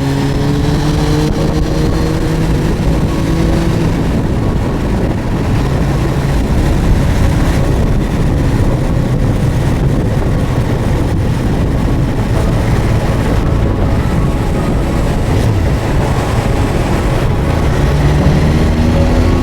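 Suzuki GSX1250FA's inline-four engine under way, its pitch rising as it accelerates in the first few seconds and again near the end, with a steady rush of riding noise at speed in between.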